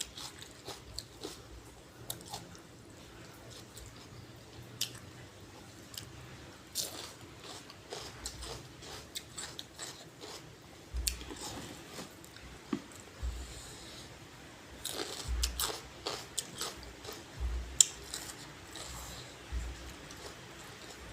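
Close-up chewing and biting of a crunchy lotus-stem salad (tam lai bua) and raw vegetables, with scattered sharp crunches and, in the second half, soft low thumps about every two seconds.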